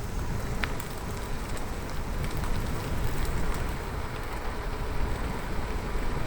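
Noise of a bicycle ride: a steady low rumble of wind on the microphone and tyres rolling on the road, with scattered light ticks.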